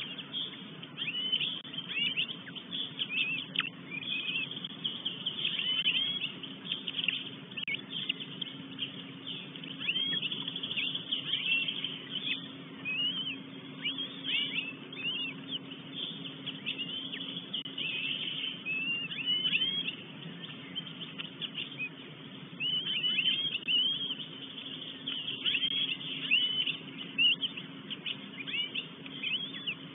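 Wild birds singing in the forest: a dense, continuous run of short chirps and quick whistled phrases from several birds, over a faint steady hum.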